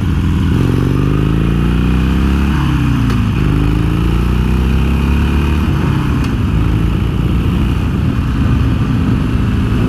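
Harley-Davidson Iron 883's air-cooled V-twin engine pulling through the gears: the revs rise, drop at a shift about two and a half seconds in, rise again and drop at a second shift about six seconds in, then run steady.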